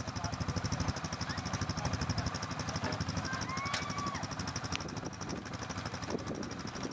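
A motor vehicle's engine running steadily, with a fast, even pulse throughout.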